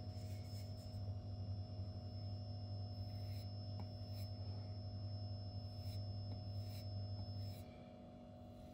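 Faint, irregular scratchy strokes of a steel knife edge drawn over a sharpening stone, working off a burr near the tip. Under them runs a steady low hum with a thin high whine, which cuts off about a second before the end.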